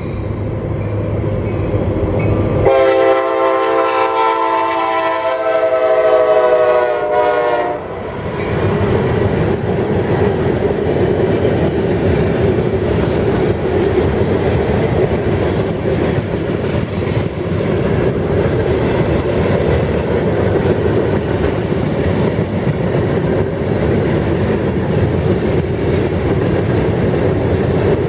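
Freight train locomotive drawing near, then sounding its multi-chime horn in one long blast from about three seconds in. The horn's pitch drops as the engine passes, and the horn cuts off about eight seconds in. The freight cars then roll past steadily with wheel clatter on the rails.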